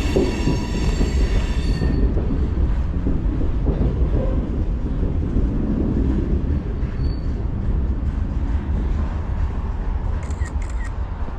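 Train crossing the railroad bridge overhead: a steady, heavy rumble of wheels on the rails, with a high metallic wheel squeal that fades out about two seconds in.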